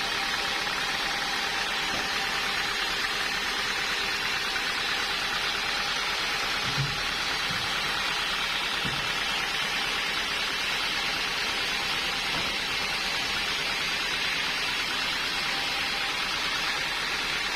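Sawmill machinery running steadily, an even hiss with no change in level, with a faint knock about seven seconds in.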